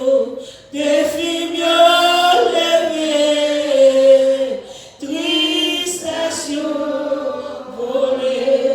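Congregation singing a slow hymn in long held notes, in two phrases with a short break about halfway.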